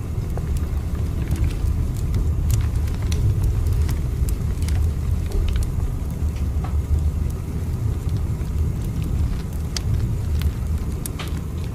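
Steady low rumble of a train in motion, with sparse sharp crackling clicks scattered through it.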